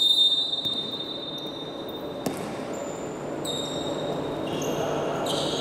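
Basketball game sounds in a gym: a long, steady, high referee's whistle blast at the start that fades over about two seconds, a single ball thump a little past two seconds, then short high squeaks in the second half.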